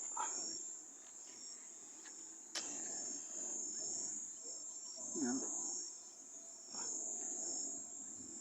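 Crickets trilling steadily at a high pitch, swelling and fading in waves, with a single sharp click about two and a half seconds in.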